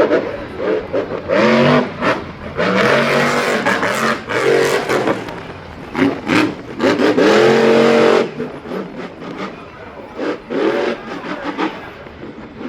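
Motorsport engine revving hard in repeated surges, its pitch climbing and dropping several times, loudest in a long rise about seven seconds in.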